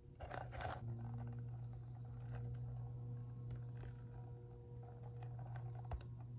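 Paper and plastic packaging being handled: a brief scraping rustle just after the start, then scattered small crinkles and taps, over a steady low hum.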